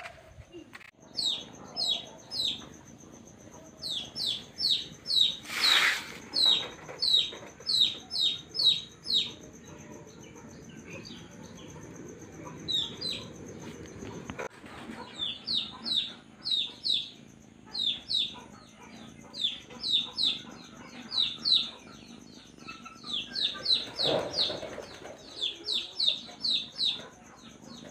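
A small bird calling in long runs of quick, high chirps, each sliding downward, several a second, with short pauses between the runs.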